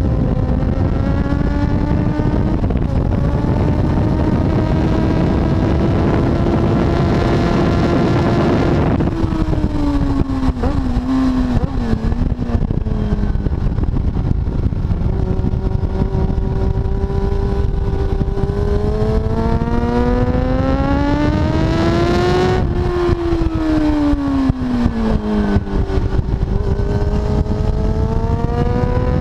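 Kawasaki ZX-7R's inline-four engine at speed, with heavy wind rush over the bike. The engine note climbs steadily, falls away about nine seconds in and wavers briefly, climbs again, falls a second time a little after twenty-two seconds, and starts rising again near the end.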